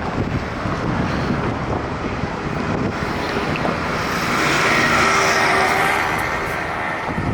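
Wind buffeting the microphone over vehicle noise, swelling to its loudest about four to six seconds in.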